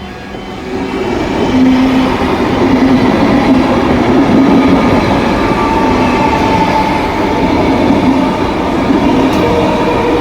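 Electric suburban train passing close by: a loud, steady rush of wheels on rails with a low humming tone underneath, building up over the first two seconds.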